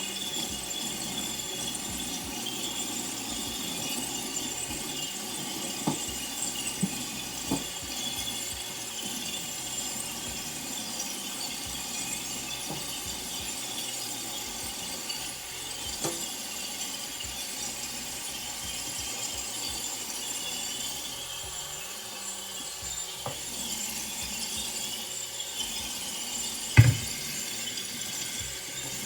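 Kitchen clatter of utensils, scattered clinks and knocks against pots and dishes over a steady background hiss, with one louder knock near the end.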